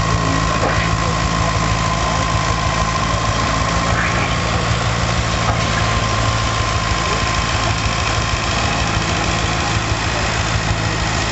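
Nuffield 4/60 tractor's four-cylinder engine running steadily at an even speed, with a steady high whine above it.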